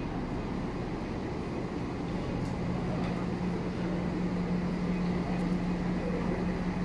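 Steady drone of a train standing at a station platform. It grows louder about halfway through, over the general hum of the station.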